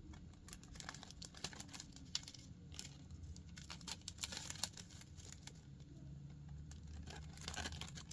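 Thin plastic ornithopter wing crinkling and rustling as it is handled, with scattered small plastic clicks while the wing tip is fitted onto the frame.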